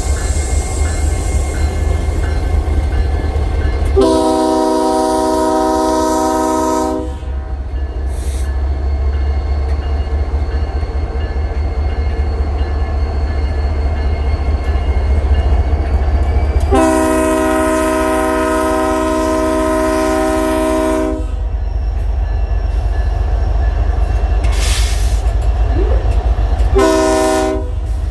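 Locomotive air horn sounding a chord of several notes in two long blasts and a short one, the pattern that opens the grade-crossing signal. A steady low rumble from the train runs underneath.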